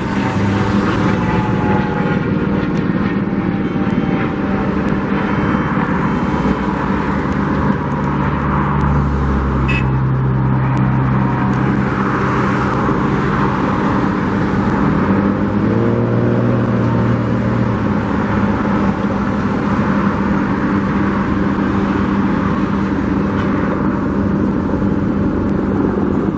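Motor vehicle engines running steadily, with a low drone throughout; one engine revs up briefly about sixteen seconds in.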